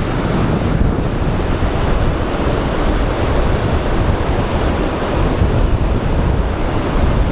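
Ocean surf washing on a beach, with strong wind buffeting the microphone in a steady, loud rumble.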